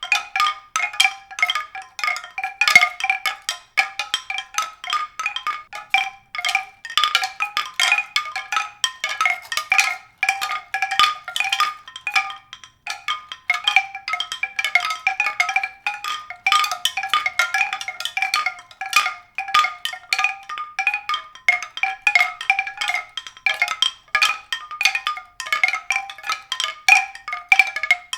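Tuned percussion struck rapidly and irregularly, several notes a second, each ringing briefly at a few recurring pitches, with a short pause about twelve seconds in.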